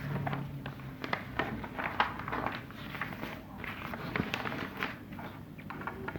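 Faint, irregular clicks and light knocks over a low background hum.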